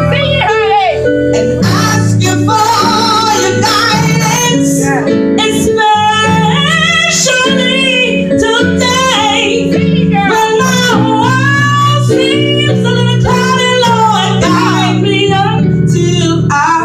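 Female gospel solo singing with wavering, melismatic runs over an instrumental accompaniment holding sustained low chords.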